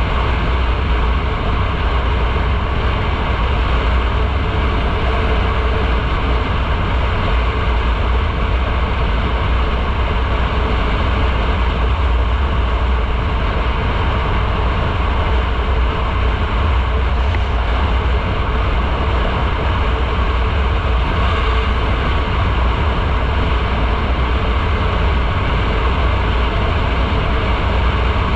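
Motorcycle cruising at a steady speed: a loud, even rush of wind and road noise with a low engine rumble underneath, and no revving or gear changes.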